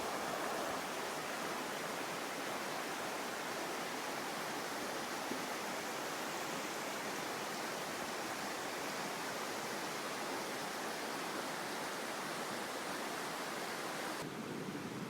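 A mountain stream's water rushing steadily. Near the end it changes abruptly to a duller, lower rush.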